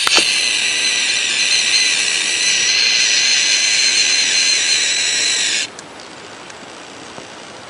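An animal's long, loud hissing screech with several steady high tones, held for about five and a half seconds and cutting off suddenly.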